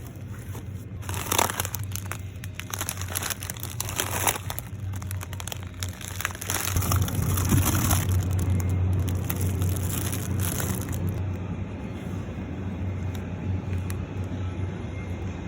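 Crinkling and rustling of packaging being handled, in irregular spells, over a steady low hum.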